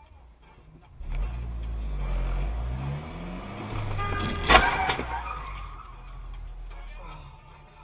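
A car engine running up in pitch as the vehicle accelerates. About four and a half seconds in comes a sudden loud bang, with a brief pitched sound around it. The sound then fades away.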